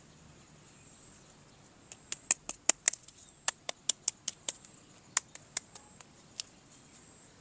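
A quick, irregular run of sharp clicks and taps from small hard objects being handled, about twenty of them bunched together starting about two seconds in.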